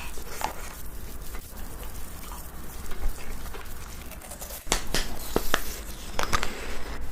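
Slime being squeezed and pressed, making small wet clicks and pops, with a quick run of sharper pops about two-thirds of the way through.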